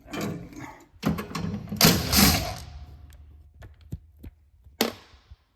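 Hand tools and metal gas piping being handled on a furnace's gas valve and manifold: knocks and clicks, a loud scraping rattle about two seconds in, more scattered clicks and a sharp clack near the end.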